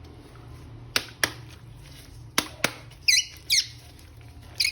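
Four sharp clicks, then short high squeaks that fall in pitch, two in quick succession and another near the end.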